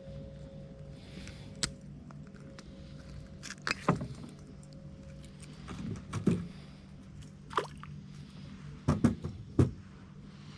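A landed bass and fishing tackle being handled in a small boat: a handful of sharp knocks and clinks, spaced a second or two apart, over a steady low hum.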